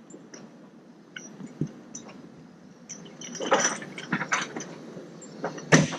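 Irregular clicks and clattering knocks, busiest in the second half, with one sharp knock near the end.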